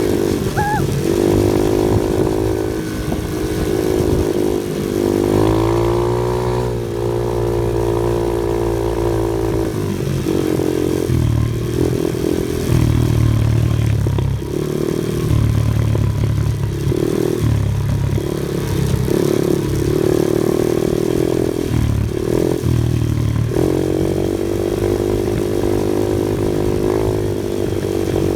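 Off-road vehicle engine running, holding a steady pitch for a few seconds and then revving up and down in short repeated surges before settling again.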